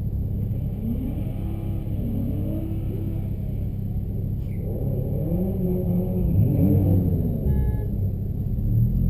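Car engine drone heard from inside the cabin of a 2009 Honda Civic Si, with engine revs rising and falling twice, about a second in and again about five seconds in.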